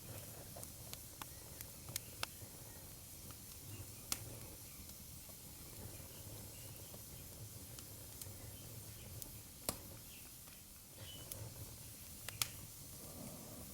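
Wood fire crackling in a fireplace: irregular sharp pops and snaps over a low steady rumble, with a few louder snaps about four seconds in, near ten seconds and near the end.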